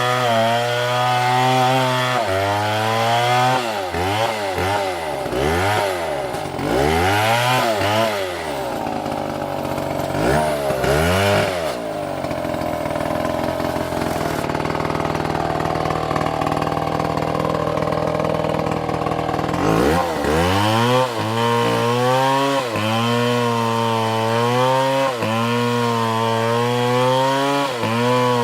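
Two-stroke chainsaw cutting into a palm trunk, its engine pitch dipping and recovering over and over as the chain takes load. Midway it holds a steadier pitch for several seconds, then the regular dips under load return.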